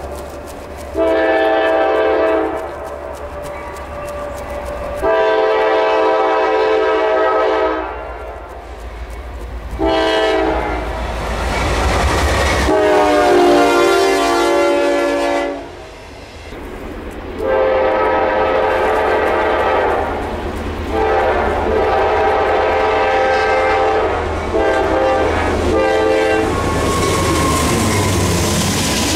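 Freight train locomotive's air horn sounding a series of long blasts as the train approaches and passes; the horn's pitch drops as the locomotive goes by. Underneath, the train rumbles and its wheels clatter over the rails as the trailer-carrying flatcars roll past.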